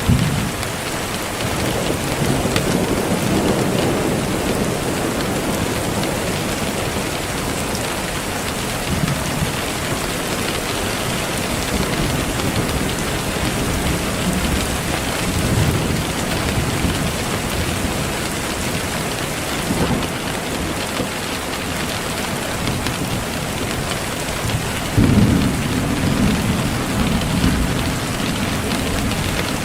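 Steady rain falling, with low rolling rumbles of thunder underneath; a louder rumble comes in about 25 seconds in and lasts a few seconds.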